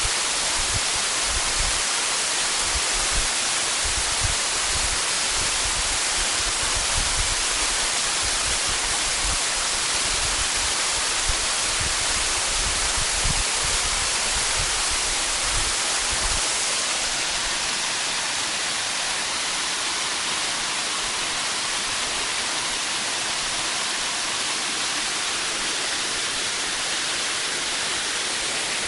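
Waterfall pouring: a steady, loud rush of falling water. An uneven low rumble underneath dies away about halfway through.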